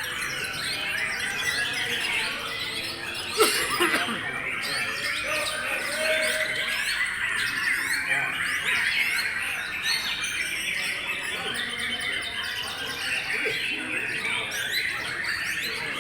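Many white-rumped shamas (murai batu) singing at once, a dense unbroken tangle of overlapping chirps and whistles. A sharp knock comes about three and a half seconds in.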